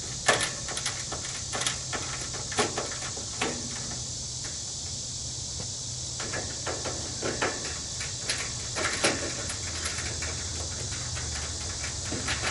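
Irregular metal knocks and clicks of parts and tools being handled while an air-conditioning condensing unit is taken apart, over a steady high hiss and a low hum.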